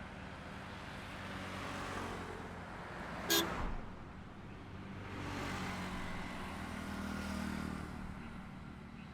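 Highway traffic: vehicles passing one after another, each swelling and fading away. A short, sharp burst about three seconds in is the loudest sound.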